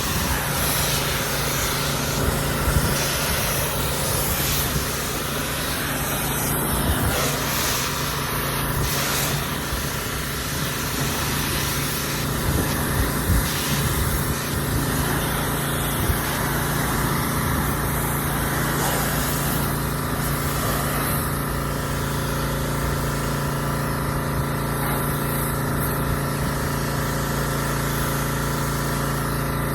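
Water spray hissing steadily against a truck as it is washed, over a steady mechanical hum.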